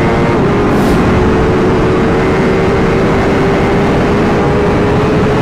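Honda CBR1000RR sportbike's inline-four engine running hard at high revs, a steady high-pitched engine note that barely changes pitch, over a heavy, even rush of noise.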